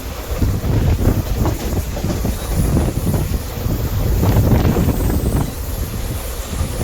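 Passenger train running on the track: a steady rumble with irregular clatter of the wheels over the rails.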